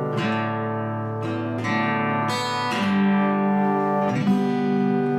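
Acoustic guitar strumming and letting chords ring out, changing chord about once a second, as the instrumental ending of a country song.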